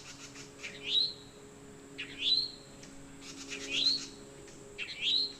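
A songbird calling over and over, a short sharp note that rises steeply in pitch, four times about a second and a bit apart.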